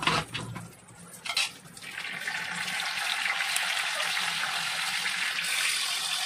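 Tofu cubes frying in hot oil in a frying pan, sizzling steadily. The sizzle builds about two seconds in as the pieces are turned, after a couple of knocks of the utensil against the pan.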